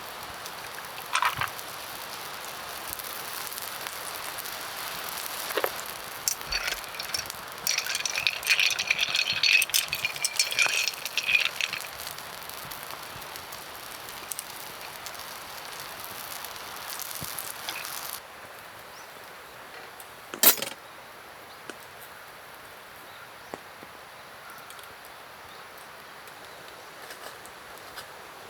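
Metallic rattling and clinking, densest a few seconds in, then one sharp knock about twenty seconds in.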